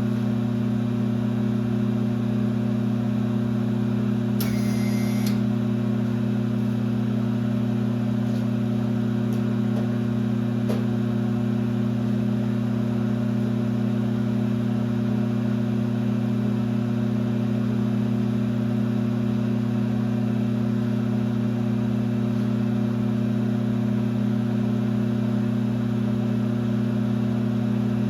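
1966 LeBlond geared-head lathe running steadily, a constant motor and gearbox hum. About four seconds in, a brief high-pitched whine lasts about a second.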